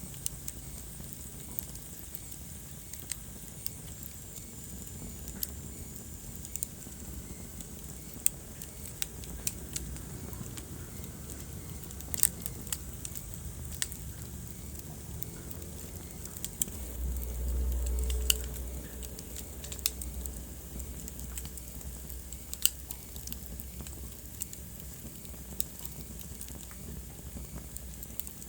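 Wood fire burning in a fireplace, crackling with sharp pops at irregular intervals over a low steady rumble. The rumble swells for a couple of seconds about two-thirds of the way in.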